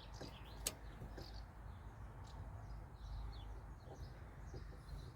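Small birds chirping repeatedly over a steady low background rumble, with one sharp click a little under a second in.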